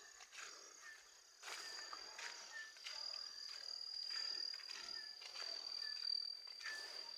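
Insects, crickets or cicadas, in a steady high-pitched drone, with footsteps through grass and undergrowth about once a second and a short chirp now and then.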